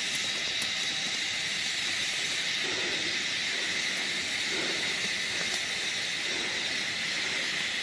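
A steady, even hiss with a faint, steady high whine running through it.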